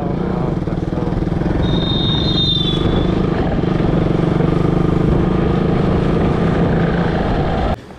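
KTM 200 Duke's single-cylinder engine running steadily under way, heard from the rider's position with road and wind noise. A brief high whistle-like tone sounds about two seconds in, and the sound cuts off suddenly just before the end.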